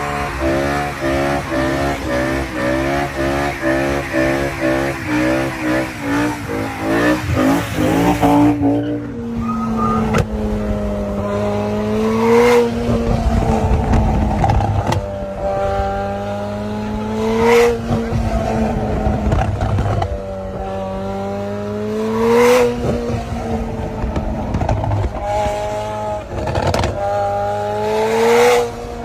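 Sports car engine revved repeatedly. After a stretch of fast, evenly pulsing engine note, the pitch climbs over a few seconds and ends in a sharp crack, about every five seconds.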